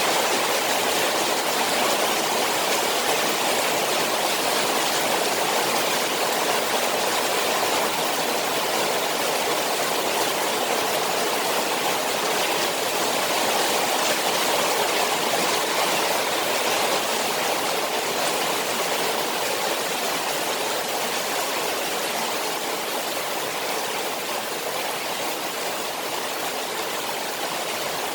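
Rain falling on a koi pond: a steady, unbroken rush of water.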